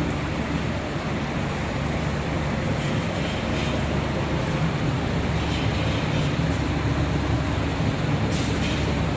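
Steady rumbling ride noise of an electric scooter in motion, with no breaks or changes in pace.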